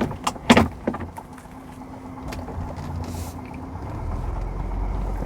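A few sharp clicks and knocks in the first second, then the low, steady rumble of a car heard from inside the cabin, growing louder from about four seconds in as it gets under way.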